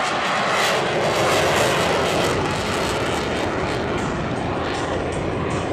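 F/A-18 Hornet jet engines running loud as the fighter makes a low pass in landing configuration, the pitch sliding down as it goes by.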